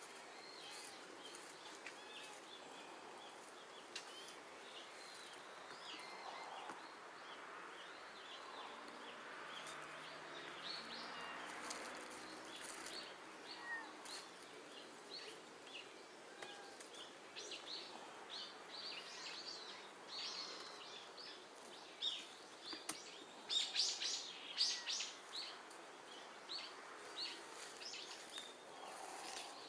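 Small birds chirping, many short high calls, busiest and loudest in the second half.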